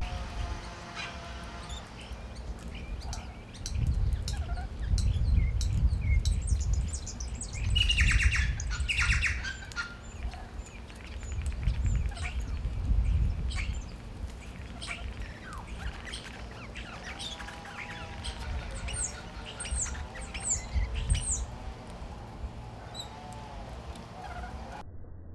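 Wild birds calling: a burst of harsh squawks about eight seconds in, scattered chirps, then a run of warbling calls with high, falling whistles in the second half. A low rumble comes and goes underneath and is loudest in the first half.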